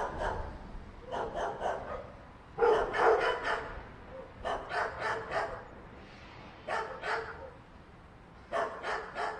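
Dog barking in short runs of several quick barks, with pauses between the runs.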